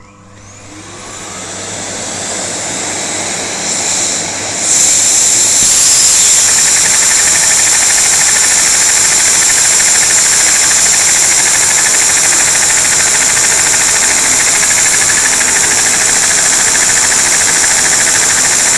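A vacuum cleaner motor spins up over about five seconds, then runs steadily with a high whine at 60% power, its suction driving a homemade butterfly vacuum engine that clatters rapidly.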